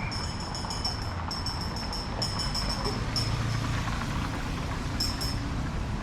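City street ambience: a steady low rumble of traffic, overlaid by repeated bursts of high, fast-pulsing chirring, several groups in a row, each about a second long.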